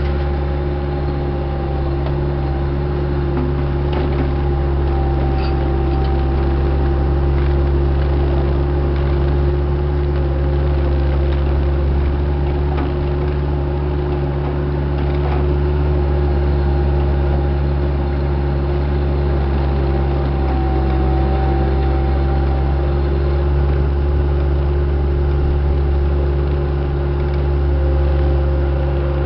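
Heavy-equipment diesel engine running steadily at a constant speed, a deep rumble with a steady whine over it and a few faint knocks.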